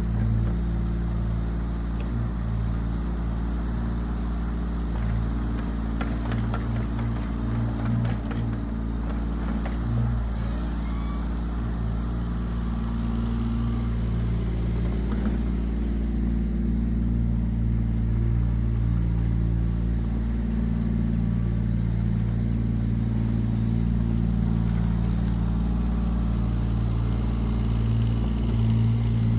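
Yanmar ViO17 mini excavator's small three-cylinder diesel engine running steadily under load. A few short knocks and clanks come in roughly a quarter of the way through.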